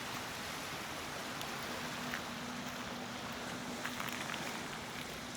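Steady rush of moving water at a lakeshore, an even hiss with a faint low hum beneath it and a few soft clicks.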